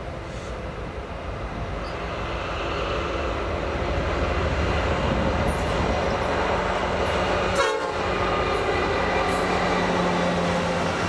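CN diesel freight train approaching and passing close by. The rumble grows louder over the first four seconds and then holds as a steady noise of locomotive and cars, with a low steady engine tone in the second half.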